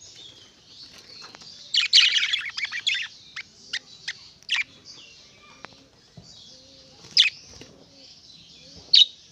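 Tits chirping: a quick flurry of sharp chirps about two seconds in, then single sharp calls every second or two, over a steady faint high twittering.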